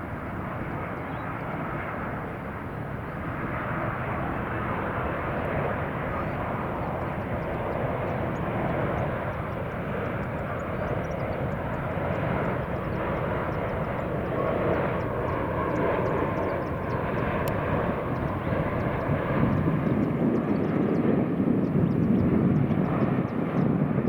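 Jet airliner engines on an arriving Boeing 787, a steady rushing jet noise whose low rumble builds and gets louder toward the end.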